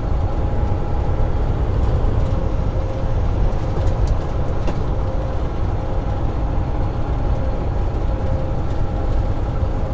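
Semi truck running down the road, heard from inside the cab: a steady low rumble of engine and tyres with a faint constant whine above it, and a brief tick about four seconds in.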